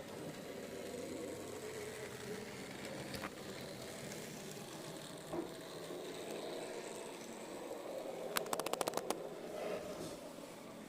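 N-gauge model train running along its track with a steady low motor hum and wheel noise. About eight seconds in comes a quick run of about eight sharp clicks.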